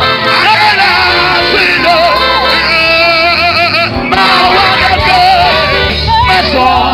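Live gospel worship music: male and female voices singing with a band accompaniment.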